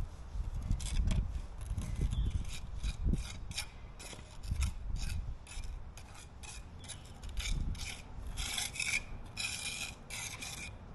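Repeated hand scraping or rasping strokes, about two a second, a tool rubbing back and forth on a hard surface, heavier near the end.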